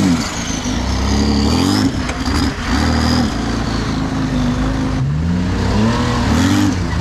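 Off-road 4x4's engine revving up and dropping back again and again, with a high whine gliding up and down over the first few seconds.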